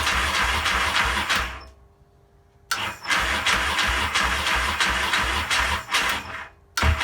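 Yamaha XS650 parallel-twin being cranked on its electric starter, on half choke, with an even low pulsing and without firing. The cranking stops about a second and a half in, starts again about a second later and runs for some four seconds, then stops briefly and resumes at the very end. The engine won't catch, which the owner thinks may come from its jetting.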